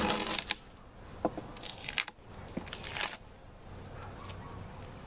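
Beehive equipment being worked by hand: three short rough scraping, crunching noises and two light knocks, wood against wood as frames and boxes are pried and moved.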